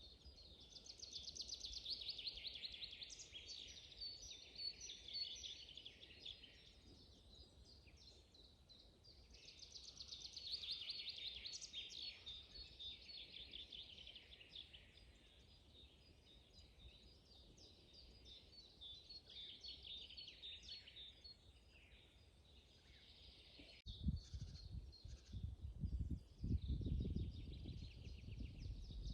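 Songbirds singing in a spring forest: fast trilled song phrases come back roughly every nine seconds over faint background song. About 24 s in, the sound changes abruptly and an uneven low rumble joins the birdsong.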